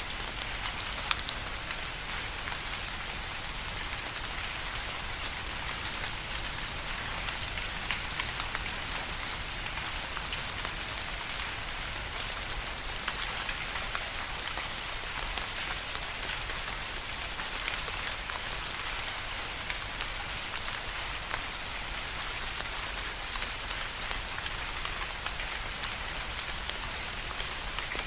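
Steady rain falling, a continuous hiss with many small drop ticks landing close by.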